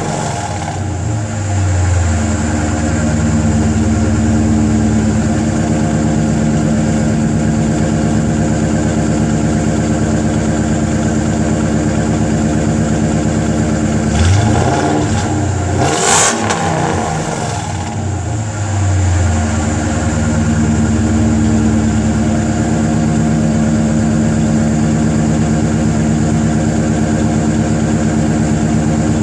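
Supercharged 4.6-litre V8 of a 2005 Mercury Grand Marquis idling through stock log manifolds, no catalytic converters and a 3-inch Stainless Works exhaust. About halfway through, the throttle is blipped and the revs rise and fall before it settles back to a steady idle.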